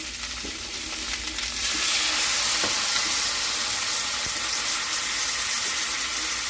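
Beef country-style riblets searing in oil in a pot, a steady sizzle that grows louder about two seconds in.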